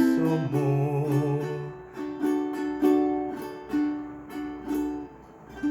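Tenor ukulele playing the closing bars: a few slow plucked notes, each ringing out and fading before the next. Under the first second and a half the singer's last note is held and then stops.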